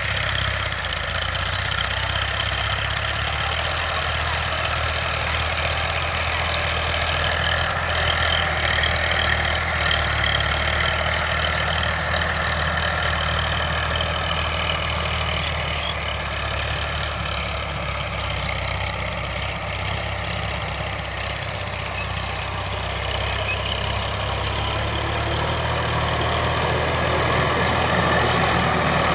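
Sonalika DI 745 tractor's diesel engine running steadily, a continuous low hum that grows slightly louder near the end.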